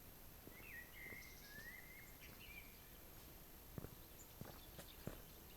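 Faint forest ambience: a bird gives a few short whistled notes in the first half, with higher chirps above, then several soft sharp clicks in the second half.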